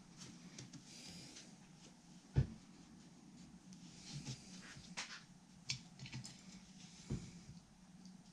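Light clicks, taps and small knocks of tools and parts being handled on a workbench during guitar assembly, with one sharper knock about two seconds in, over a steady low hum.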